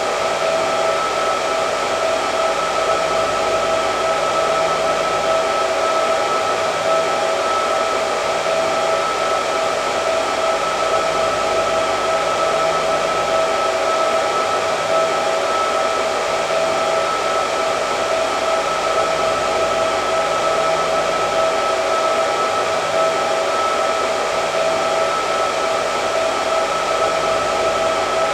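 Hair dryer running continuously: a steady airy rush with a constant whine on top.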